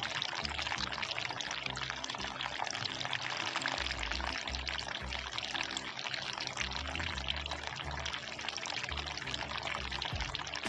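Water from a small handmade tabletop fountain pouring and splashing steadily into its basin, over background music with sustained low notes.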